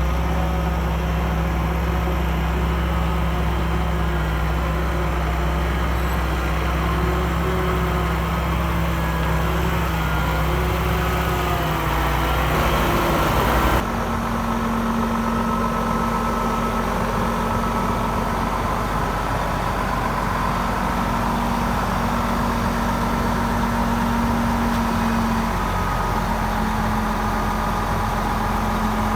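Diesel engine of heavy earthmoving machinery running steadily. A little under halfway through the sound changes abruptly to a different, higher-pitched steady engine note.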